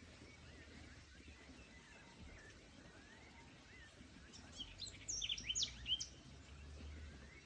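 Songbirds calling: faint short chirps repeat throughout, and a nearer bird sings a louder burst of quick, high, sweeping notes about halfway through. A low steady rumble runs underneath.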